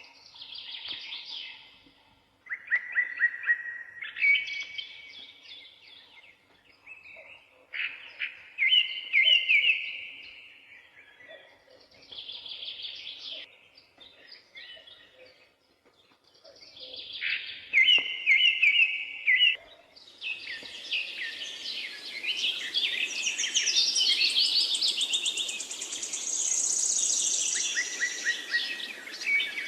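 Songbirds singing short, repeated phrases, one every few seconds. About two-thirds of the way through, a steady rushing noise comes in beneath denser, overlapping song from several birds.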